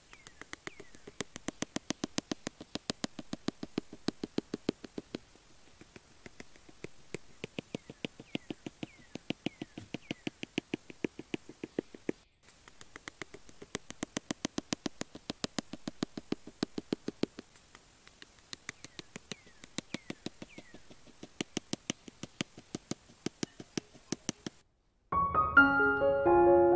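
Fast, even runs of light clicks, about seven a second, as bamboo sticks are worked down into sand; the runs last several seconds with short breaks. Near the end the clicking stops and soft piano music begins.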